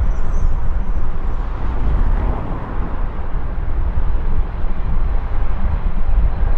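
Jet airliner engines rumbling steadily, with a deep uneven low end like wind buffeting the microphone.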